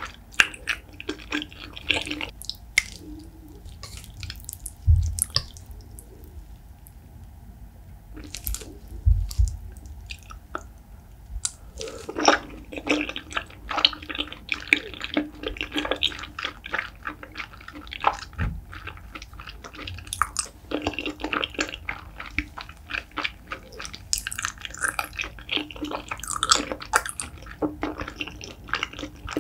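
Close-miked chewing of spicy braised beef feet: wet, sticky smacking and clicking of the mouth on chewy, gelatinous meat, with a couple of low thumps in the first third.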